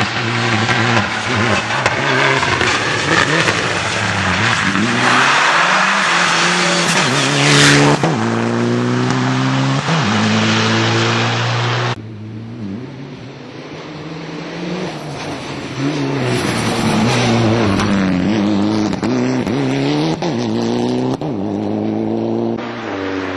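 Mitsubishi Lancer Evolution IX rally car's turbocharged four-cylinder engine at full racing pace, its pitch climbing and falling again and again through gear changes. A loud rush of noise builds about six to eight seconds in, and about halfway the sound turns abruptly duller and quieter while the engine keeps revving.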